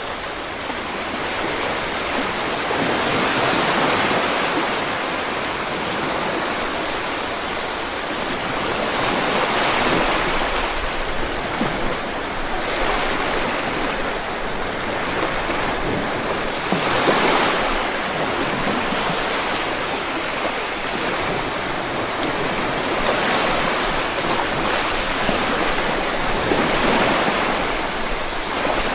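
Steady heavy rainfall, an even hiss that swells and eases gently every few seconds.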